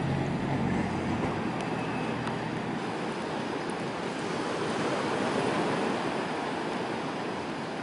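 Sea waves surging and washing onto the shore, a continuous rushing noise that swells about a second in and again near six seconds, with a few faint pops from a crackling campfire.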